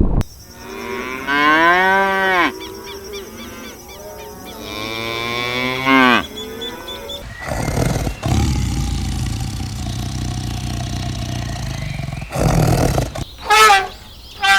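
Cattle mooing: several drawn-out calls that rise and fall in pitch over the first six seconds, the loudest about two seconds in. After that comes a steady low rumble with two short noisy bursts, and a brief high-pitched call near the end.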